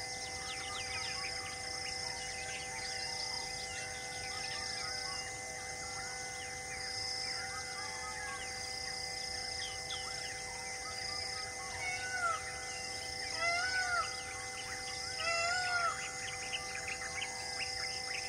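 Forest birds chirping, many short calls overlapping, with three louder arching calls between about twelve and sixteen seconds in. A high call repeats about once a second behind them.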